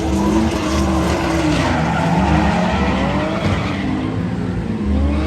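Drift car engine revving up and down, its pitch climbing and falling, as the tyres squeal and skid.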